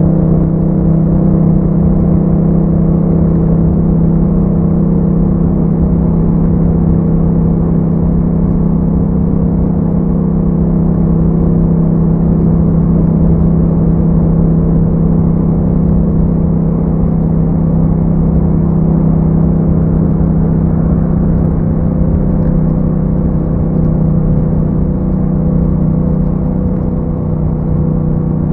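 2021 Yamaha MT-07's 689 cc parallel-twin engine through an Akrapovic exhaust with a dB killer, running at a steady engine speed as the bike cruises. The note holds almost constant pitch throughout, without revving up or down.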